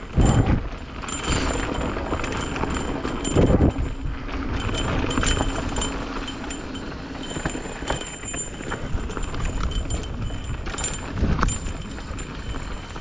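Mountain bikes on a rough, wet dirt trail: tyre and frame noise with knocks and rattles, loudest just after the start and again about three and a half seconds in.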